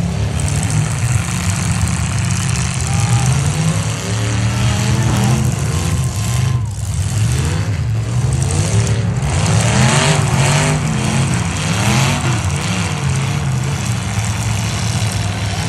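Several demolition derby trucks' engines running and revving hard at once, their pitches rising and falling over one another.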